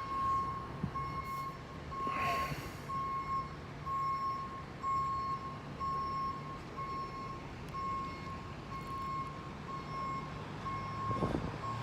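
Truck reversing alarm beeping steadily, about once a second, over the truck's engine running: a tow truck backing up to the crashed vehicle.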